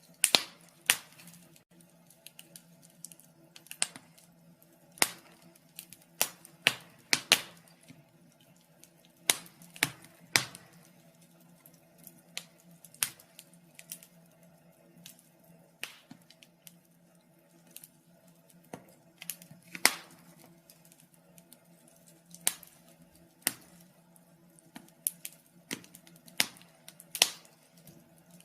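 Wood fire in a fireplace crackling, with irregular sharp pops and snaps, some much louder than others, over a faint steady hum.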